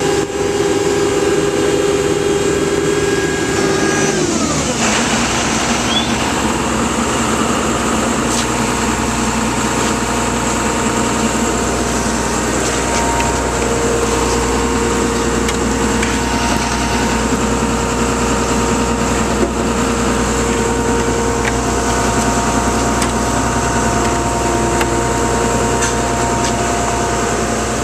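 A vehicle engine running steadily; about four seconds in its higher whine drops sharply in pitch, then it carries on as a steady lower drone.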